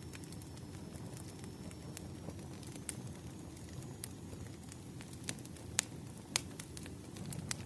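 Wood fire burning, a steady low rumble of flames with irregular sharp crackles and pops from the burning logs, two louder pops about six seconds in.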